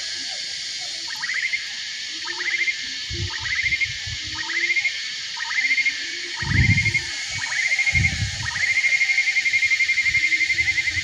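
Tropical forest ambience: a steady high insect drone, with an animal call rising in pitch repeated about once a second that runs into a long fast-pulsing trill in the last few seconds. Lower hooting calls and a few brief low rumbles come through as well.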